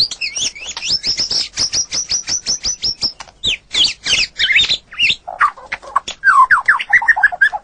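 White-rumped shama (murai batu) singing a fast, varied song. It opens with a rapid string of high repeated notes, about eight a second, moves into mixed whistled phrases, and ends with a quick run of lower notes.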